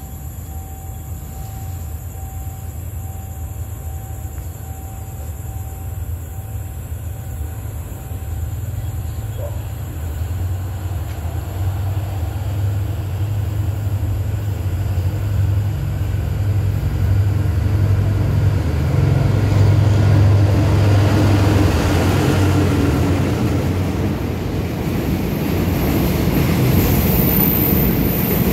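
Diesel freight train hauled by a State Railway of Thailand GEA-class locomotive approaching and running through the station. A low engine rumble grows steadily louder as it nears, then turns into the rush of the passing wagons, with a high wheel squeal near the end.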